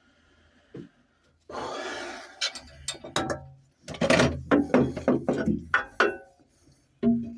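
Hand tools knocking and clinking on metal: a short scraping rush, then a quick run of a dozen or so sharp knocks, some of them ringing briefly.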